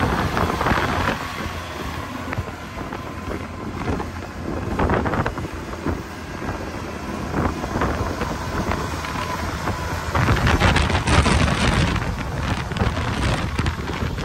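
Blizzard-force wind buffeting the microphone in gusts, with a deep rumble; the strongest gust comes about ten seconds in.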